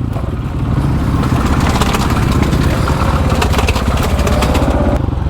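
Supermoto motorcycle engine running steadily at low revs, with a fast, even pulsing.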